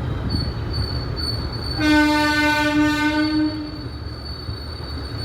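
Indian Railways train running with a steady rumble and a thin high wheel whine. About two seconds in, a locomotive horn sounds once, a single blast lasting about two seconds.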